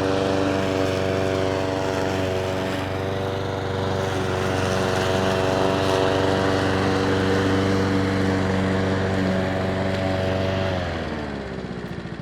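Petrol lawn mower engine running at a steady speed. Near the end it is shut off, and its pitch falls as it winds down.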